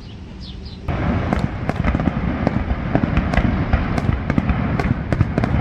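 Fireworks display: a dense run of bangs and crackles over a continuous rumble, starting abruptly about a second in.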